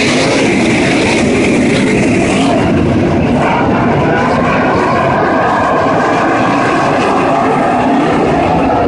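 A field of ASCS winged sprint cars racing past, their 360 cubic inch V8 engines running hard and loud, several at once, the pitch of each rising and falling as the cars go by.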